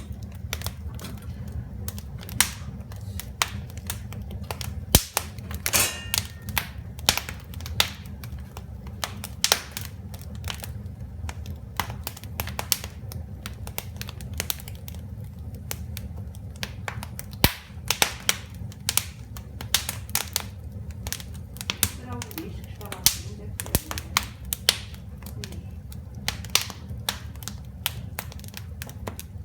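Fire burning in a fireplace, crackling with irregular sharp pops and snaps, a few much louder than the rest, over a steady low rumble.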